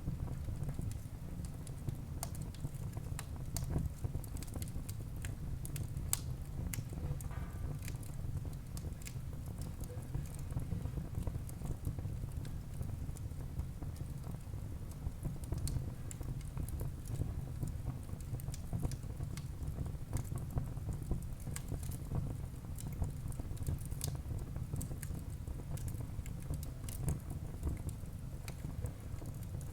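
Wood fire burning in a fireplace: a steady low rumble with frequent sharp crackles and pops from the burning wood.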